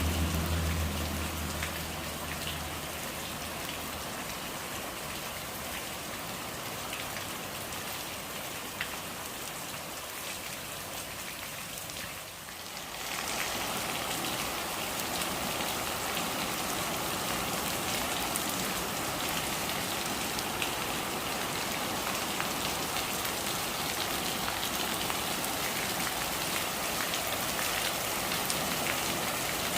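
Steady rain falling on surfaces, an even patter and hiss. A low rumble underneath fades out over the first few seconds. The rain dips briefly about twelve seconds in, then comes back slightly heavier.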